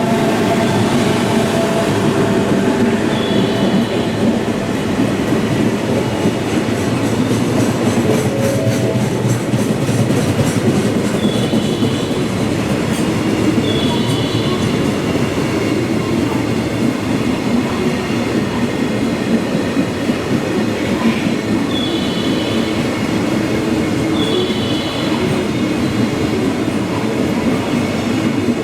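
Train running on the Kyoto Line at Suita station: a long, steady, loud rumble of wheels on rail with a clatter. Brief high wheel squeals come several times, around 3 seconds in, again a few seconds either side of the middle, and near the end.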